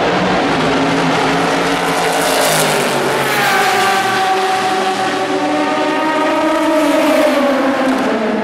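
Endurance racing car engine at high revs passing the trackside, its pitch falling steadily over several seconds.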